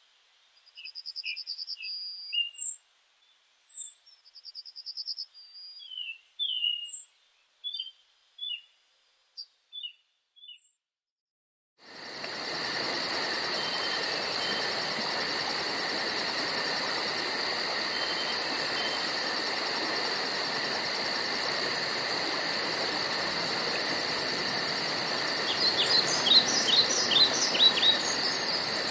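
Songbirds chirping and trilling in short separate phrases with brief silences between them. About twelve seconds in, this gives way abruptly to a steady chorus of insects with a rapid, high pulsing. A few quick bird chirps come near the end.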